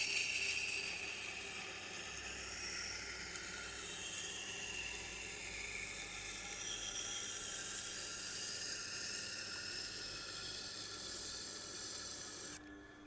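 Steel knife edge ground against the Tormek T8's SG-250 stone wheel, its surface coarsened with an 80-grit diamond plate: a steady hissing scrape that stops suddenly near the end.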